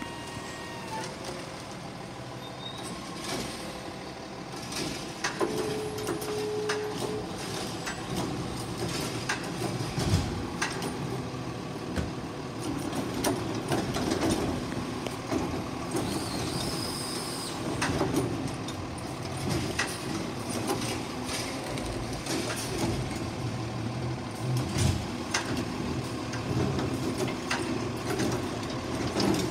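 Garbage truck running, its engine noise steady throughout, with many scattered knocks and clanks, a brief tone about six seconds in and a short high whine just past the middle.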